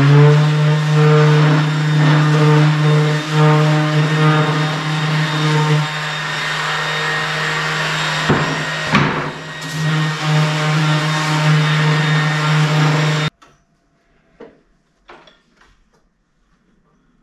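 Electric power tool motor spinning up to speed and running steadily, with a couple of knocks as it works the wood about eight seconds in. It cuts off abruptly near the end, followed by a few light clicks.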